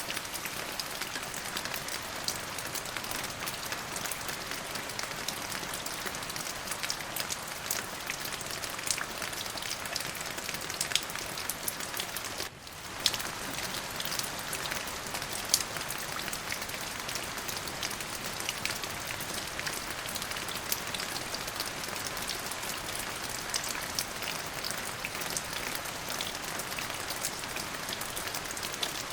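Steady rain falling, an even hiss dotted with many individual drops striking sharply. It dips briefly about halfway through.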